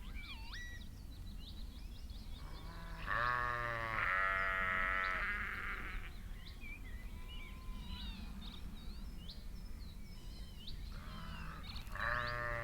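Sheep bleating: two long, wavering bleats about three seconds in and another near the end, with birds singing throughout.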